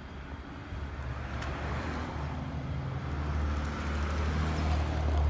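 A motor vehicle's engine running close by, a low steady drone that builds from about a second in and fades out near the end, over outdoor traffic noise.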